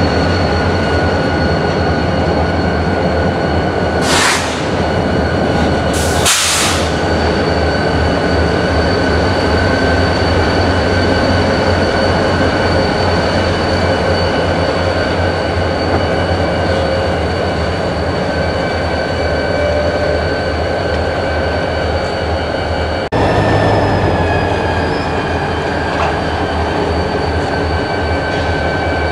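Freight cars rolling slowly through a rail yard, their wheels squealing in steady high tones over the low rumble of the Union Pacific diesel locomotive shoving them. Two short bursts of hiss come about 4 and 6 seconds in.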